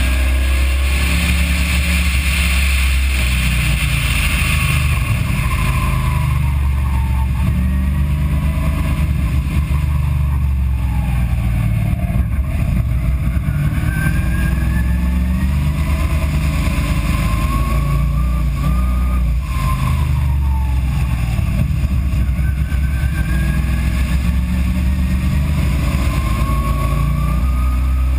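Car engine heard from an in-car camera during hard track driving, its note falling as the car brakes and shifts down, then rising again as it accelerates, over a heavy low rumble.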